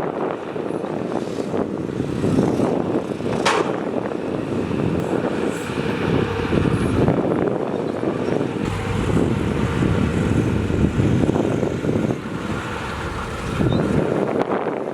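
Heavy diesel earthmoving machinery, dump trucks and bulldozers, running steadily, with one brief sharp sound about three and a half seconds in.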